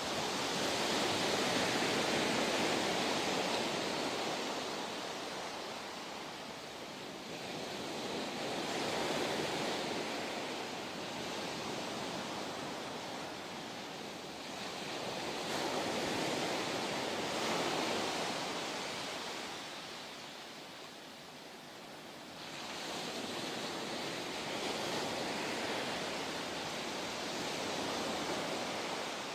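Pacific Ocean surf: a continuous rush of breaking waves that swells and ebbs every several seconds.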